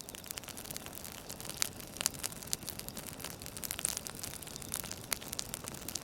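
Campfire crackling: a steady hiss of burning wood with irregular sharp pops and snaps.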